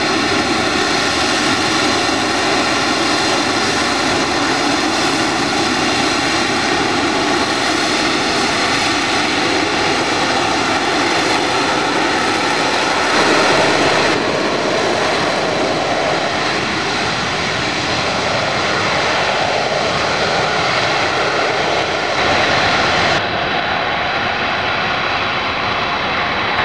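Aircraft engine running loudly and steadily, a whine made of many steady tones over a rushing noise; the sound changes abruptly about 14 and 23 seconds in.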